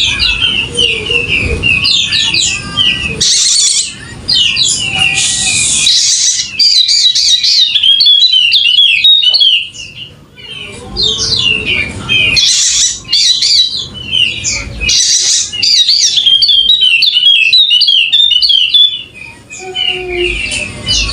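Yellow-spectacled white-eye (Wallacean white-eye) singing. Its song is fast runs of high chirping notes in long bouts, with short breaks about ten seconds in and again near the end.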